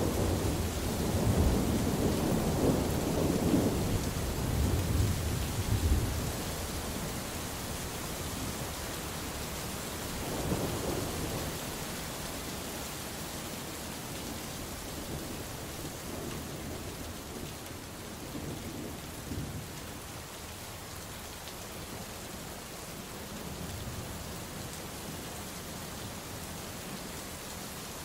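Steady heavy rain falling, with a long rolling rumble of thunder in the first six seconds, a smaller rumble about ten seconds in and fainter distant rumbles later on.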